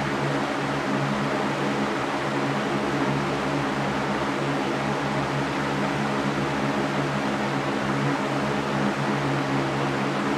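Electric fan running steadily: an even rushing of air over a constant motor hum.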